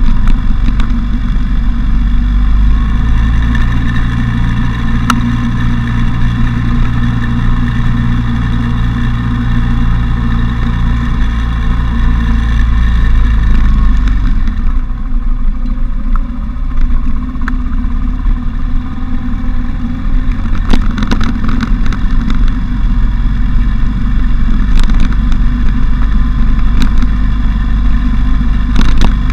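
Motorcycle engine running under way, with a heavy low wind rumble over the unshielded bike. About halfway through the hiss fades and the engine note shifts, then builds again.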